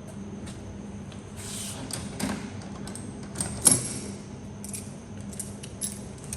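Scattered light clicks and clinks of metal parts and tools being handled on a workbench, with a brief rustle and one sharp knock a little past the middle, over a steady background hum.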